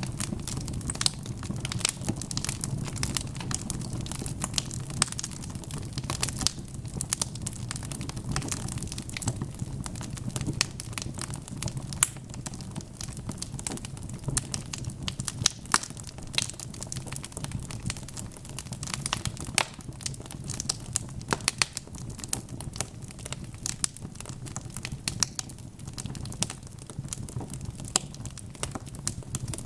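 Wood fire of burning logs crackling in a fireplace: frequent irregular sharp pops and snaps over a steady low rumble of the flames.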